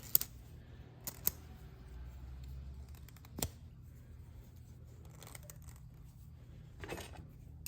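A handful of light, sharp metallic clicks as an inner valve spring is shoved and pried into its outer spring on a Ford 351 Windsor, over a faint low hum.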